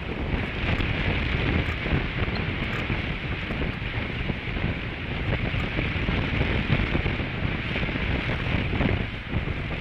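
Strong wind buffeting the nest camera's microphone: a steady gusting rumble with a hiss over it.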